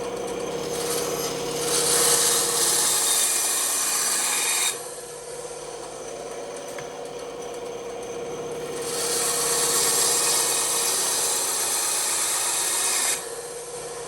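Bandsaw running with a steady hum while its blade cuts wood in two stretches of a few seconds each. Each cut ends abruptly, dropping back to the hum of the running saw.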